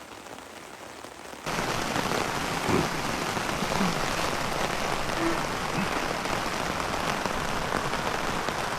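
Steady rain falling, a dense even hiss that comes in suddenly about a second and a half in.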